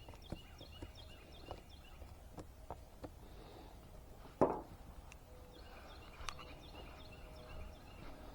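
Young chickens peeping in short runs of high notes, twice, with scattered light taps and clicks and one louder thump about halfway through.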